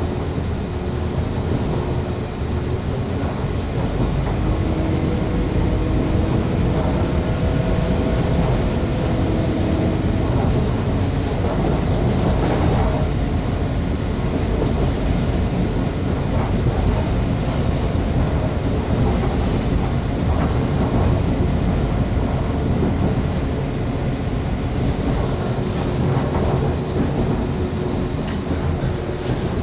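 Passenger train running at speed, heard from inside the carriage: a steady noise of wheels on rail with faint held humming tones and a brief sharper clack about twelve seconds in.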